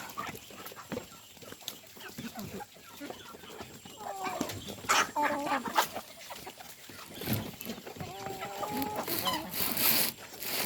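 Chickens clucking, with a few longer drawn-out calls in the middle and again near the end, over many short clicks.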